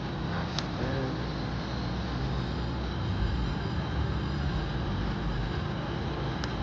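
Steady din of a casino floor, with slot machines and distant crowd noise blending into one constant wash. Two short sharp clicks sound, about half a second in and near the end.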